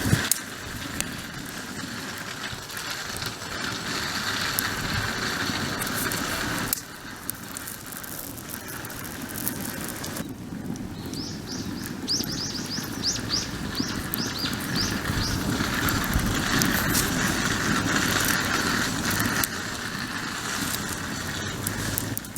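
Wood campfire crackling and hissing, with abrupt jumps in level where the footage cuts.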